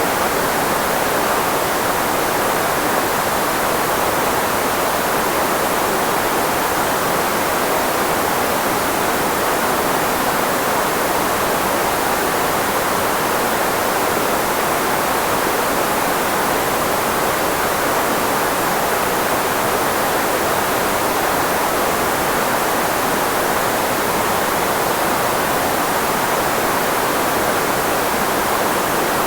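Steady filtered white noise, an even hiss that stays the same throughout, shaped to mask the frequencies of the human voice and strongest in the voice's midrange.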